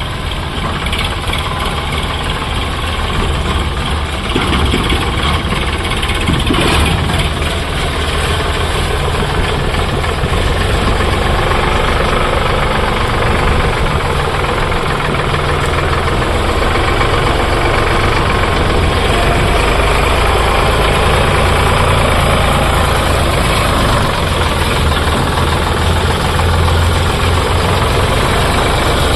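Tractor diesel engine running steadily, grows a little louder a few seconds in and then holds.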